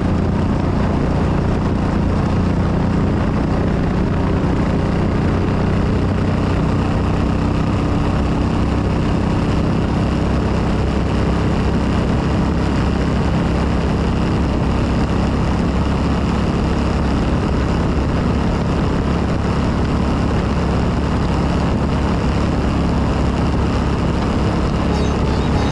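Motorcycle engine running at a steady cruising speed, its note holding constant without revving, under a rush of wind and road noise.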